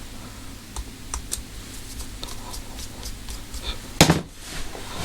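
Light clicks and taps of a screwdriver and small screws being handled, with one louder knock about four seconds in.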